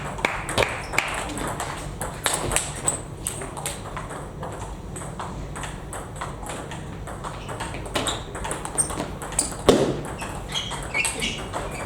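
Celluloid/plastic table tennis balls clicking off rackets and the table in quick, irregular rallies, with a louder thump about ten seconds in.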